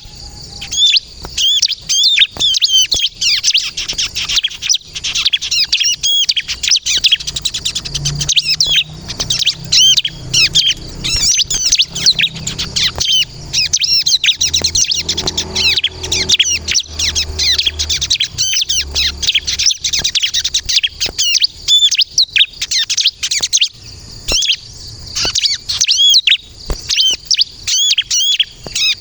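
Bar-winged prinia (ciblek kristal) singing vigorously, a long unbroken stream of rapid, high, sweeping chirps with hardly a pause.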